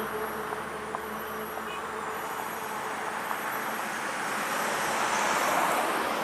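Road traffic: a vehicle's tyre and engine noise swelling to its loudest about five seconds in as it passes, then easing off.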